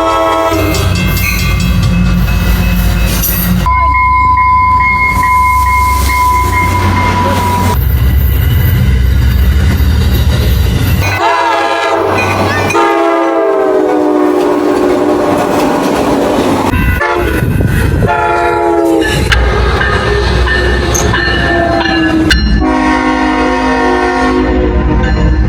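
Locomotive horns sounding over the low rumble and wheel clatter of passing trains, in a run of short clips. Several horn blasts are heard, one of them dropping in pitch as the train passes by.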